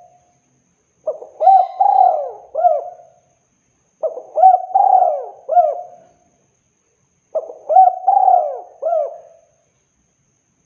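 Spotted dove (tekukur) cooing: three repeated phrases about three seconds apart, each a run of four or five short, arching coos.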